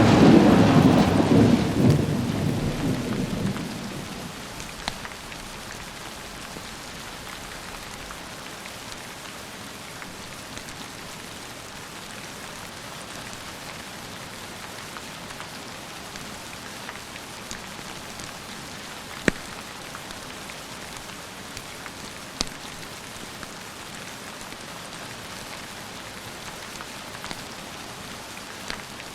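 A thunderclap rumbling and fading away over the first few seconds, then steady rain, with a few sharp ticks now and then.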